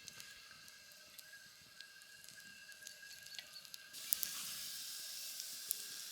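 Sausages and meat frying in a pan on a portable gas stove: a faint sizzle with scattered pops and crackles that grows louder about four seconds in.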